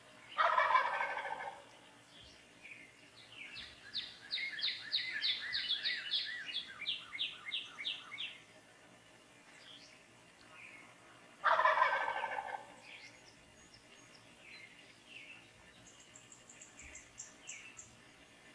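Wild turkey tom gobbling twice, each a loud rattling gobble about a second long, some eleven seconds apart. Between the gobbles a songbird sings a long run of quick repeated notes, with fainter chirps later.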